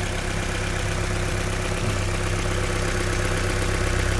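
Opel Astra H's Z16XEP four-cylinder petrol engine idling steadily, with no tapping knock: the knock came from oil pooled in the intake manifold, which has now been cleared out.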